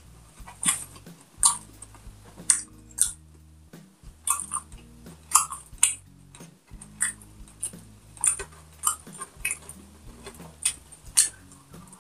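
Close-up eating sounds: wet chewing and lip smacks in short, irregular bursts as a mouthful of pork and rice is eaten.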